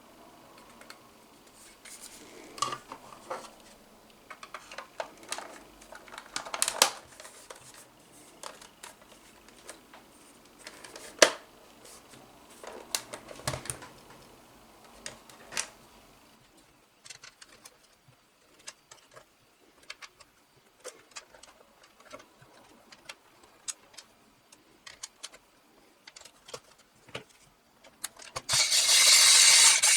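Small hard parts of a flashlight being handled: scattered clicks and taps, with a few louder knocks in the first half. Near the end a loud rubbing or filing noise starts.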